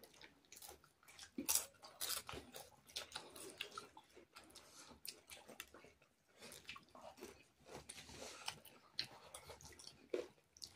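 Two people chewing and eating rice and curry with their hands: soft, scattered wet mouth clicks and smacks.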